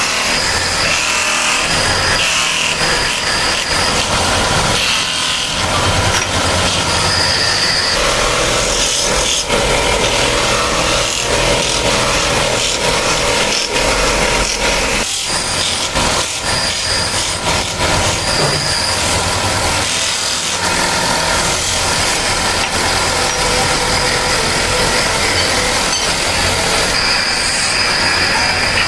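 Loud, continuous workshop noise from a power tool working sheet metal, with a high whine that comes and goes.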